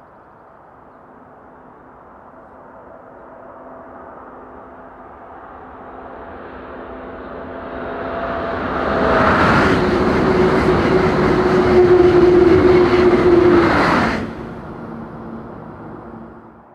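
Class 373 Eurostar high-speed electric train passing: its rumble builds for about nine seconds as it approaches, then a loud rush of wheels and air with a steady whine over it for about five seconds. The sound drops off sharply as the end of the train goes by, then fades away.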